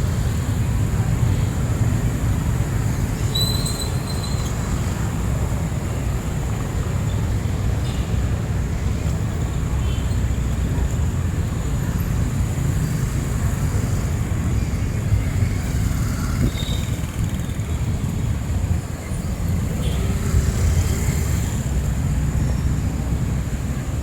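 Street traffic noise: a steady low rumble of vehicles, with a thin high whine throughout and a few short high chirps, the clearest about three and a half seconds in.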